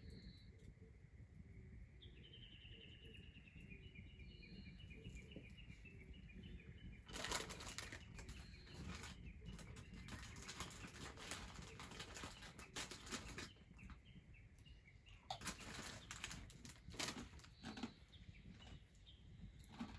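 A small bird calling a run of short, repeated high chirps over a few seconds. Then come two longer stretches of rustling noise, the loudest sounds here, the first beginning about seven seconds in.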